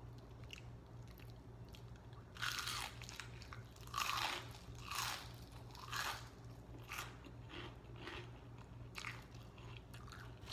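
Close-miked crunching and chewing of crispy fried food, a bite crunching about every second, the loudest a few seconds in.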